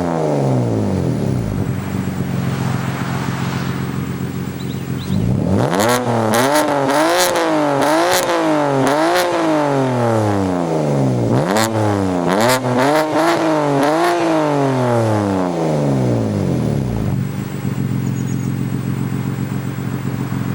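BMW M4's twin-turbo inline-six through an Eisenmann GT4 exhaust with Akrapovič mid-pipes, blipped again and again in quick rises and falls of revs, with sharp crackles from the exhaust as the revs drop. It idles steadily before and after the run of blips.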